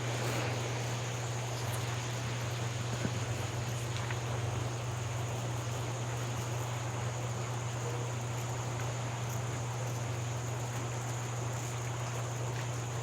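Steady outdoor ambience by a flowing river: an even rush of water with a constant high insect drone over it and a steady low hum underneath.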